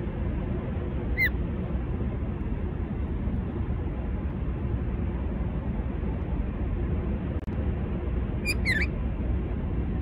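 A bird gives a short falling whistled call about a second in, and a quick run of two or three whistled notes near the end, over a steady low rumble.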